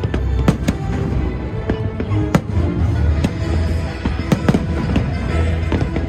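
Fireworks exploding in quick succession, a string of sharp bangs several a second over a continuous low rumble, with music playing underneath.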